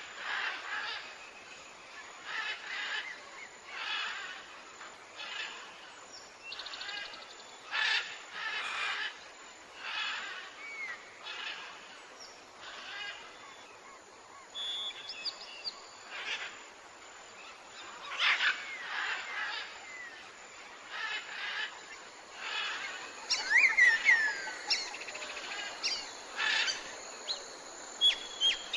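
Wild birds calling, with one short call repeating roughly once a second and other birds adding chirps and gliding whistles over it. The chirping grows busier a little past the middle.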